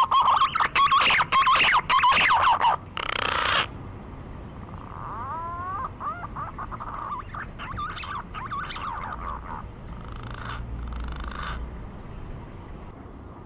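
Green pigeon (punai) calls played as a hunting lure: rising, wavering whistles, then a loud rapid chattering run of notes. The whistles and a softer chatter come again midway, followed by two short rasping bursts.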